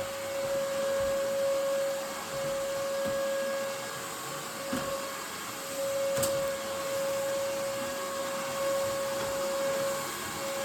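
RIDGID shop vac running with a Hoover WindTunnel canister powerhead on its hose, vacuuming carpet: a steady whine over the rush of air. There is one sharp click about six seconds in.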